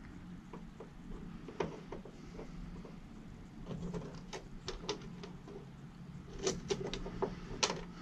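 Hands handling wires, parts and tools at a workbench: scattered light clicks and taps, with a few sharper clicks near the end.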